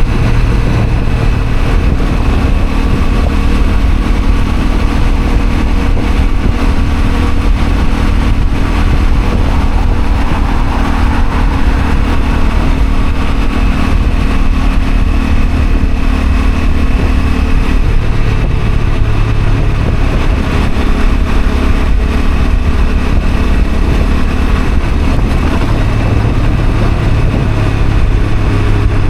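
Honda CL250 motorcycle engine running steadily, with heavy wind rumble over the microphone; the engine note changes about two-thirds of the way through.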